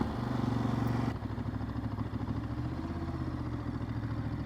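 Motorcycle engine running. Its sound drops about a second in as the bike slows, then carries on low and steady.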